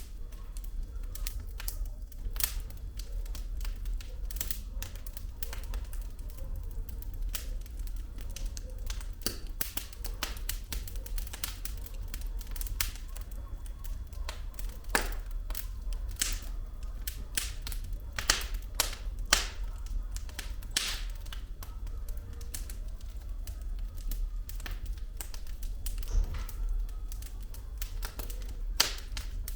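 Firewood burning in a fireplace, crackling with dense, irregular pops and snaps over a low steady rumble. Several louder snaps stand out, around the middle and again near the end.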